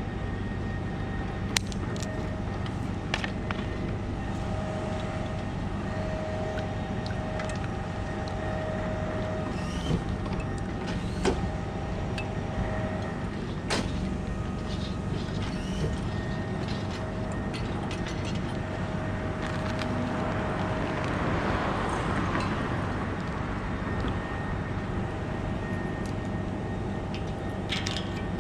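A bucket truck's engine running steadily with a low hum and a faint whine that comes and goes, and a few sharp clicks over it.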